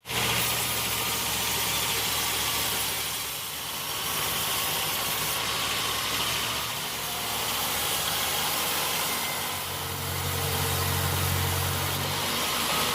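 Sawmill machinery running steadily: a constant engine hum under a high hissing noise, with the low hum growing stronger about ten seconds in.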